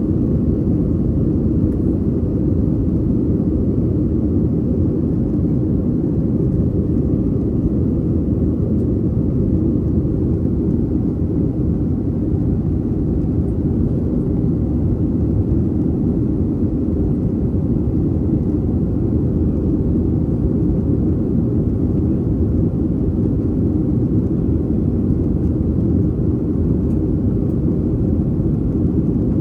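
Steady low rumble of a Boeing 737-800's CFM56-7B engines and airflow, heard from inside the passenger cabin.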